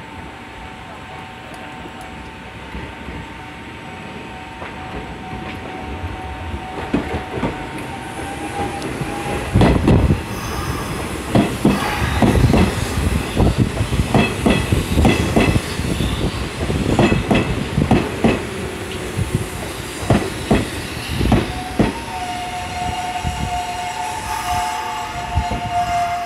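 A Hanshin electric train pulling into the platform: a rising rumble, then its wheels clack over rail joints in pairs as each car passes, spreading out as it slows, with brief high squeals among the clacks.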